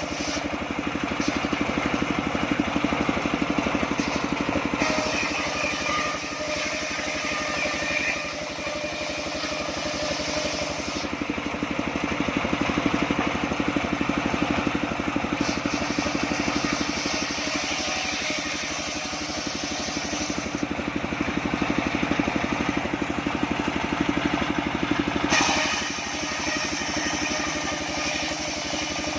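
Engine-driven homemade circular sawmill running steadily, the engine note with a high hiss that comes and goes as the blade saws sengon timber.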